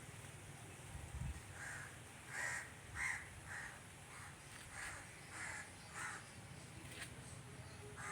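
Crow cawing repeatedly: a run of short, harsh caws, starting a little under two seconds in and coming about one or two a second.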